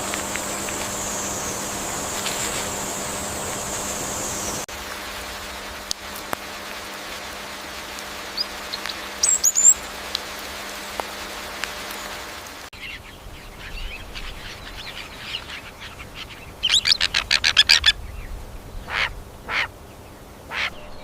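Bird calls in outdoor ambience: a short chirp about halfway through, then a fast run of clipped calls followed by a few single short calls near the end, after a steady hiss in the first few seconds.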